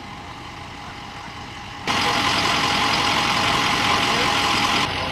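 A motor vehicle's engine running steadily. About two seconds in, a loud steady hiss starts suddenly, lasts about three seconds and cuts off abruptly.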